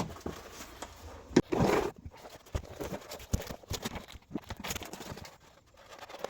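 Irregular light knocks and taps, with a short scraping rustle about one and a half seconds in: hands working foam padding into place on the vehicle's rear floor.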